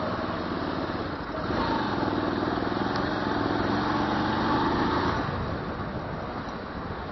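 Motorcycle engine running in city traffic. The engine sound grows louder from about a second and a half in and eases off again about five seconds in.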